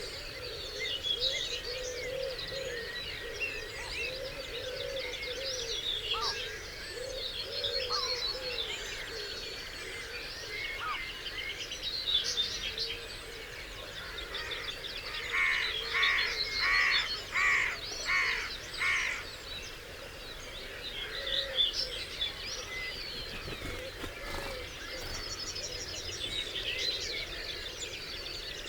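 Dawn chorus of many songbirds singing over one another, with a low wavering call running through the first half and one bird giving a loud call six times in quick succession about halfway through. A steady hiss of running stream water sits underneath.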